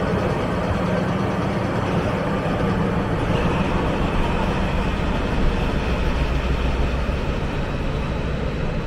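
Sagano Romantic Train running, a steady rumble throughout.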